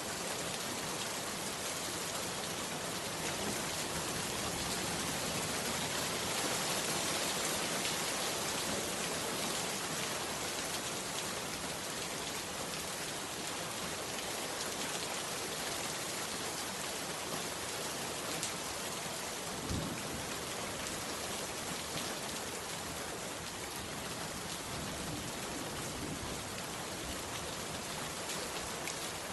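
Heavy rain falling steadily, an even dense patter. One short low thump comes about two-thirds of the way through.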